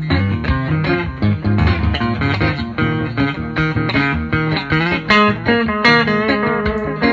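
Music: a Telecaster-style electric guitar playing a busy run of quick single notes over a bass line.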